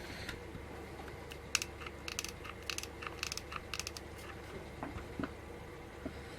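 A run of light clicks and crackles from hands working craft materials, artificial moss and a hot glue gun, about one and a half to four seconds in, with a couple more near the end, over a faint steady hum.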